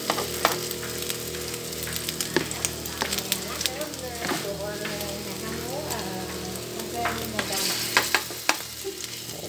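Shrimp-and-scallion batter patties deep-frying in hot oil in a pan: steady sizzling with scattered sharp pops, and a spoon working the patties in the pan.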